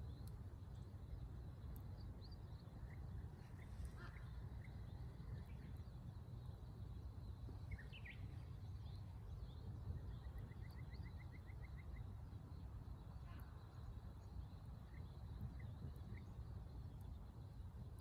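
Wild birds calling here and there, short chirps with a quick trill about ten seconds in, over a steady low background rumble.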